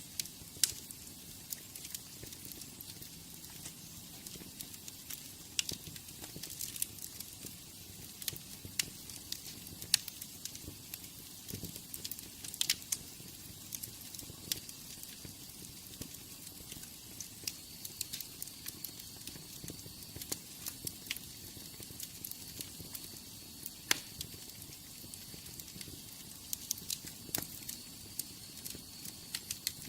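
Wood fire crackling in a fireplace: irregular sharp snaps and pops, several a second, over a steady hiss and low rumble of the flames.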